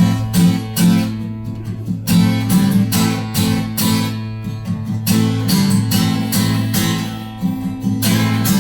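Acoustic guitar strummed in a steady rhythm, an instrumental passage of a bard song with no singing.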